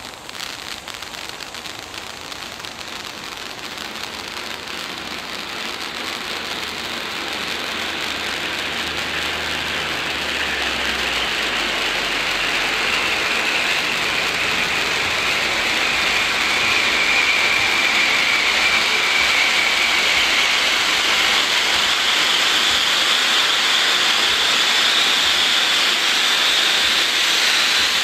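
Shivas Gold gold crackling fountain firework burning: a dense spray of crackling hiss that grows steadily louder over the first half, then holds at full strength.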